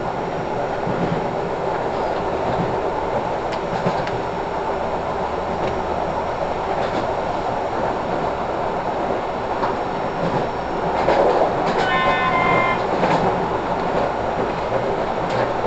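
A train running, heard from inside the carriage: a steady rumble with the clickety-clack of wheels over rail joints. About twelve seconds in, a brief high pitched tone sounds for under a second over the running noise.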